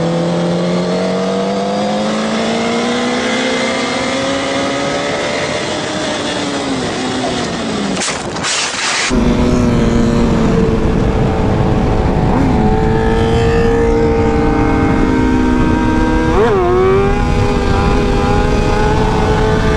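Motor vehicle engine accelerating, its pitch rising steadily over several seconds, then a short burst of loud noise. After that another engine runs at a steady pitch, with a quick rev up and down near the end.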